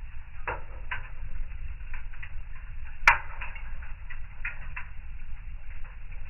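Fire in a fireplace crackling and popping over a low, steady rumble of flame, with a loud sharp snap about three seconds in.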